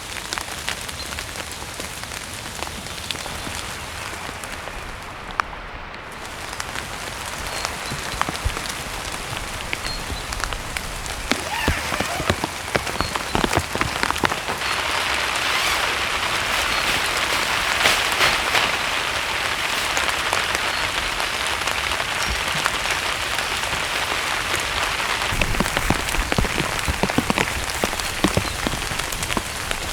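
Heavy rain falling, with many sharp drop hits close by over a steady hiss; it gets louder about eight seconds in and stays heavy.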